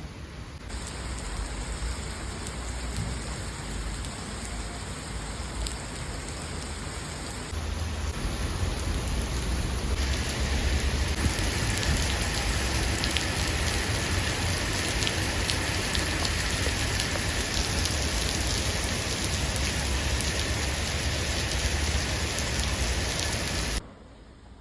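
Steady rain, an even hiss that steps louder a few times, as if from joined clips, and grows heavier about ten seconds in, then cuts off abruptly near the end.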